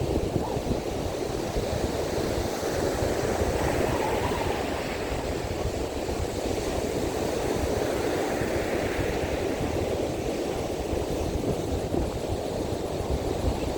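Rough sea surf washing steadily onto the beach in strong monsoon wind, with a constant low rumble.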